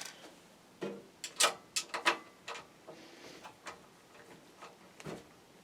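A screwdriver working the screws that hold a power supply in the back of a PC case, making light metallic clicks and ticks. They come in a quick cluster about a second in, then a few scattered ones.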